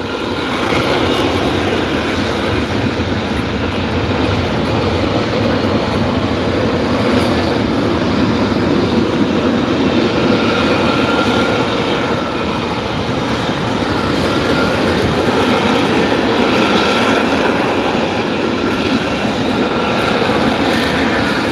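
Loud, steady jet noise from a U.S. Marine Corps F-35B Lightning II's F135 engine, a dense rushing sound that holds at an even level throughout.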